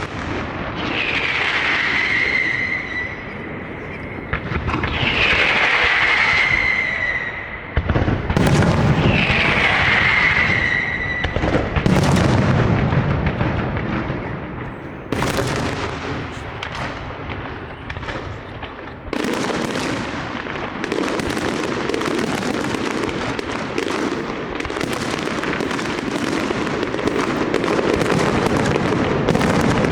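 Large aerial fireworks display: three whistling shells that fall in pitch and level off, then deep booms, and from about halfway a dense barrage of rapid cracks and bangs over a continuous rumble.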